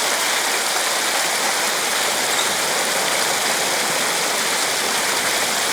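River water rushing steadily: a loud, even, unbroken noise.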